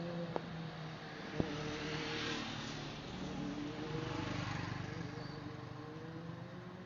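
A vehicle engine running with a steady, slowly drifting pitch, swelling about two seconds in and fading away near the end, with two sharp clicks in the first second and a half.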